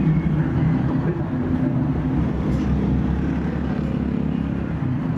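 A motor running steadily with a low hum, without distinct strikes.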